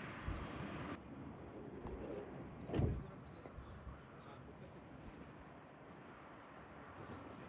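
Birds chirping: a run of short, high chirps over faint background noise, with a single dull thump just under three seconds in. A steady noise before it cuts off abruptly about a second in.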